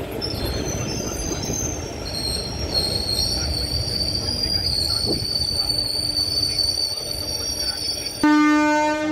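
Train carriage rolling slowly out of the station: a steady rumble of wheels on rail with high-pitched wheel squeal for most of the stretch. Near the end a train horn sounds, one loud steady note.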